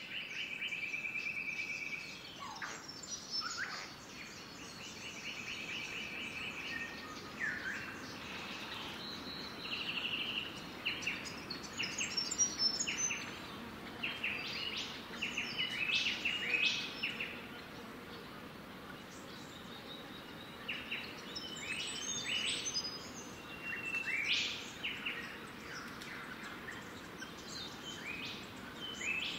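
Birds calling in the garden: several short rapid trills early on, then clusters of quick high chirps and tweets, over a steady low background hiss.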